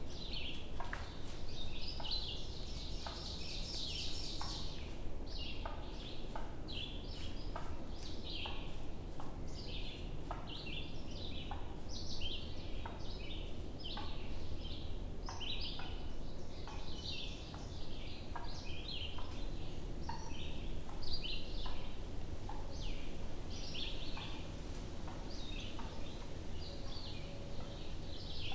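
Several songbirds singing steadily in a dawn-style chorus of short, high chirps and phrases, with a fast high trill a few seconds in, over a steady low wind rumble.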